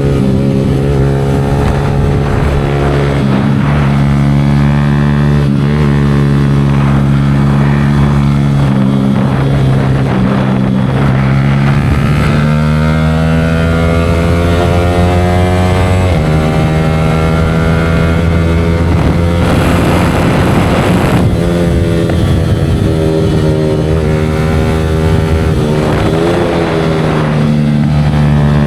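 Yamaha R15 V4 motorcycle engine running through an aftermarket Leo Vince exhaust, its note holding steady for stretches and shifting in pitch a few times as the throttle changes.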